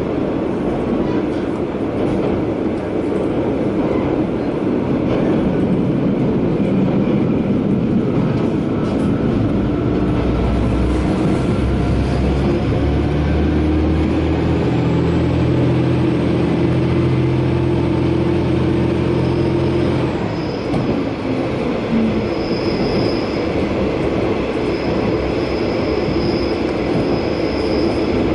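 Inside the cabin of a JR KiHa 120 diesel railcar running along the line, with steady wheel and rail noise. About halfway through, the diesel engine's drone rises as it pulls under power and then cuts off at about two-thirds in, as the car coasts. Near the end a thin high wheel squeal comes and goes, as on a curve.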